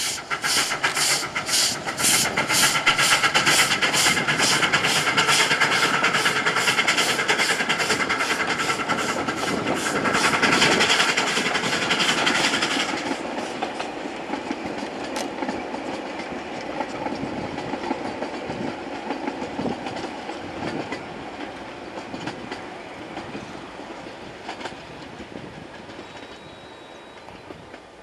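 Narrow-gauge train running with a fast, even rhythmic beat of about three strokes a second. About 13 seconds in the beat stops and a quieter, steady running rumble is left, fading away.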